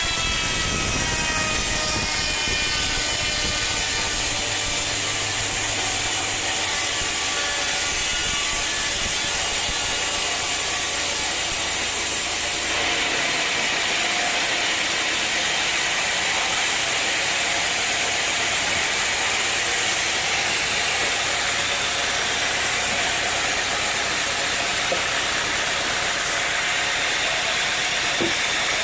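Sawmill running, its saw cutting through wood over the engine's steady noise; a pitched whine slides down over the first several seconds.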